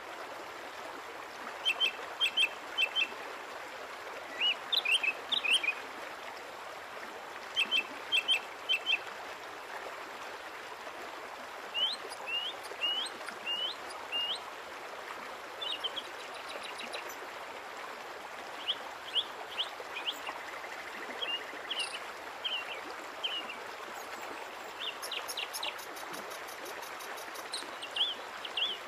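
A small bird chirping in short, quick phrases of three to five high notes, repeated every few seconds, over a steady outdoor hiss.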